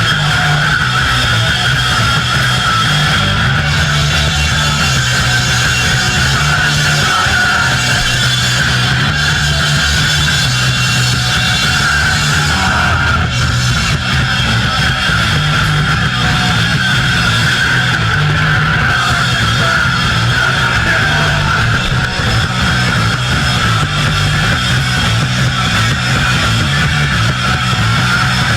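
Punk band playing live, loud distorted electric guitar over the full band, with no break in the sound.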